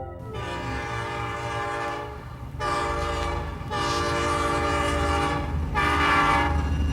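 Train horn sounding four blasts, the second one shorter, over the low rumble of the moving train, growing louder as it comes closer.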